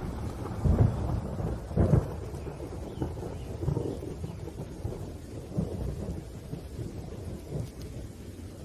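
Thunder rolling during a rainstorm, with two louder swells of rumble about one and two seconds in, then smaller rumbles that gradually die away over a faint steady rain hiss.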